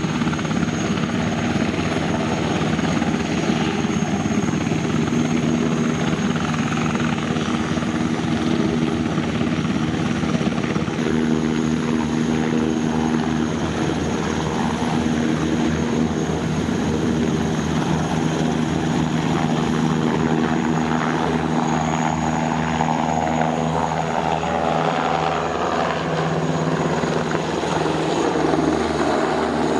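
Rotorcraft flying a display: steady beating rotor sound mixed with engine tones, shifting in pitch about a third of the way through.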